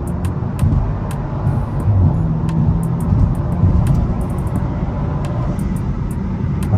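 Audi A4's tuned, muffler-deleted turbocharged four-cylinder under full throttle in third gear, heard from inside the cabin as the car accelerates hard from highway speed.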